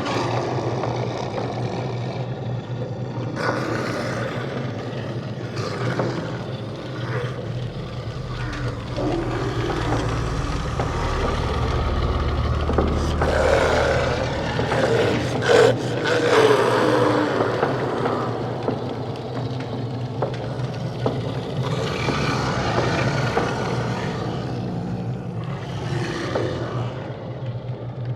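Dark horror sound-design ambience: a steady low drone under rough, growl-like and scraping textures. A deep rumble swells through the middle, with a sharp clank-like hit about halfway through.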